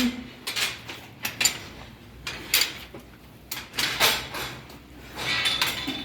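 A cow eating its feed: irregular crunching, rustling and knocking, in short strokes spaced unevenly between moos.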